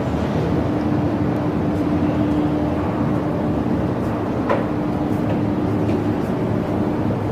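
Steady rumble of a running vehicle, with a faint even hum over it and a couple of light clicks.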